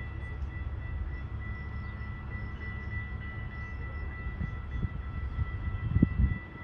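GO Transit push-pull commuter train approaching the station cab car first, a steady low rumble with a thin steady high tone over it. A few low thumps come about six seconds in.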